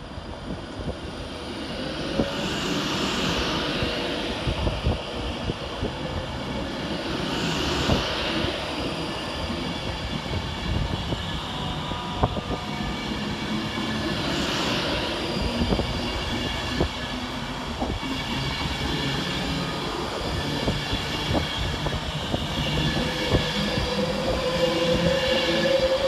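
Class 390 Pendolino electric train pulling out and running past, with its wheels clicking over rail joints and hissing swells as the carriages go by. A tone rises and grows louder near the end.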